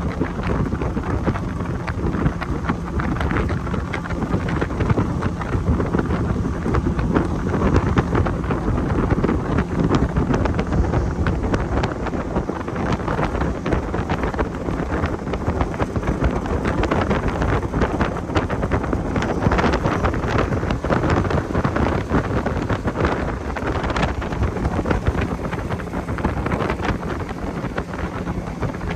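Wind buffeting the microphone on a moving motorboat, over the steady drone of the boat's motor.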